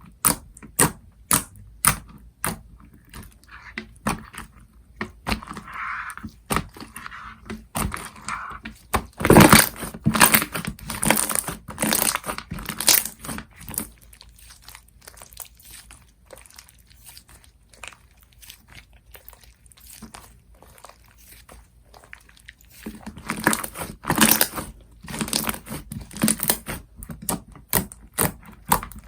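Slime being played with by hand: sharp popping clicks as it is pressed and stretched, about two a second at first, then denser runs of crackling pops, with a quieter stretch of softer handling in between.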